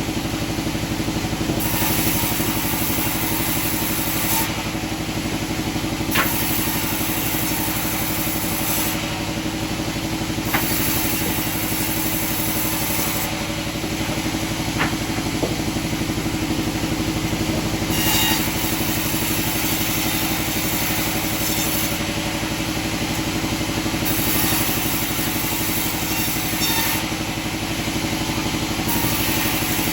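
Sawmill machinery running steadily with an engine-like hum, and a few sharp knocks scattered through.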